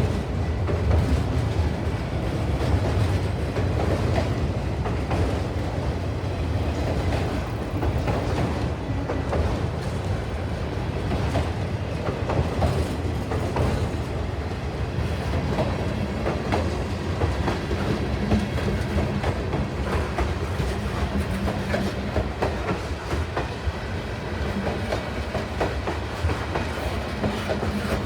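A train rolling past, its wheels clicking over the rail joints in a steady run of clacks over a constant rumble.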